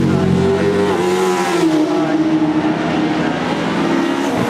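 Racing sports saloon's engine running hard at race pace, its note dropping in pitch over the first two seconds and then holding steady.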